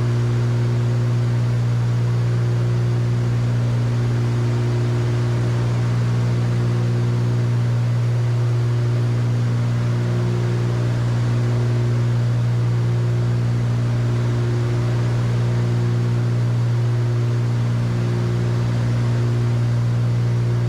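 Cockpit drone of a Cessna 310Q's twin piston engines and propellers in cruise: a strong steady hum with a hiss of airflow above it. A slow regular swell every couple of seconds is the beat of the two engines turning at slightly different speeds.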